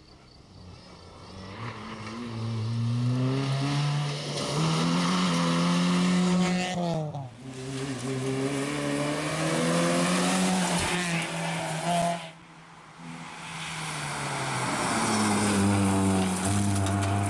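Ford Fiesta rally car's engine revving hard under full throttle, rising in pitch, with a brief lift about seven seconds in before it pulls again. The sound drops away suddenly about twelve seconds in, then the engine builds up loud again as the car comes by.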